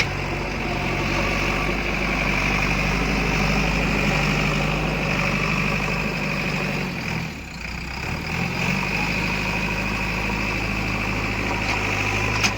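Heavy diesel engine running steadily at a low speed. About seven seconds in its pitch drops briefly, then comes back up. A sharp knock comes near the end.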